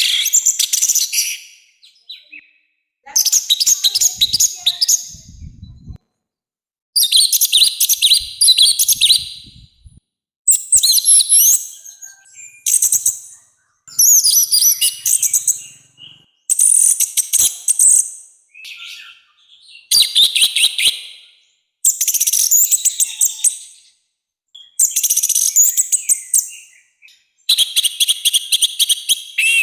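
Orange-headed thrush singing a loud, harsh song in rapid phrases of quick, sweeping notes. Each phrase lasts one to two seconds, with short pauses between them.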